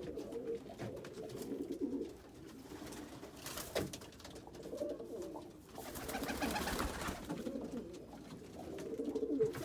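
Domestic pigeons cooing, several low calls repeating one after another, with a brief noisier stretch about six seconds in.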